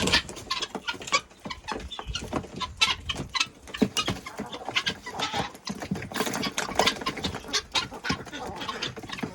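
A flock of chickens clucking, mixed with many short sharp clicks and taps.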